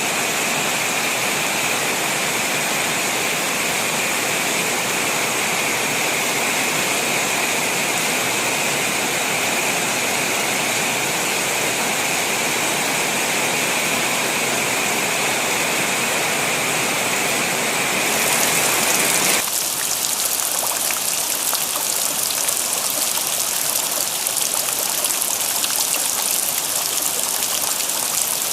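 Steady rain falling, with runoff water flowing. About two-thirds of the way through the sound changes abruptly to a crisper, hissier patter of raindrops.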